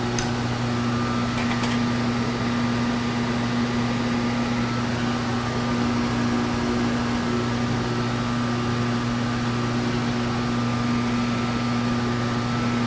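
A machine tool's electric motor running steadily with a constant hum, and a short click just after the start.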